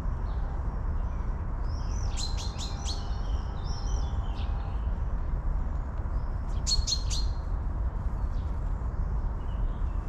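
Songbirds chirping and singing in the trees, in quick bursts of short warbled phrases about two seconds in and again near seven seconds, over a steady low rumble.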